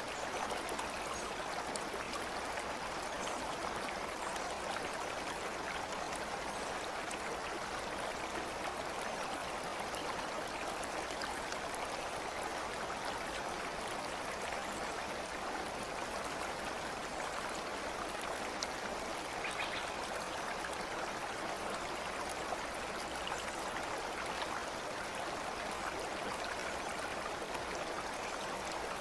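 Running water of a stream: a steady, even rush with a few faint ticks scattered through it.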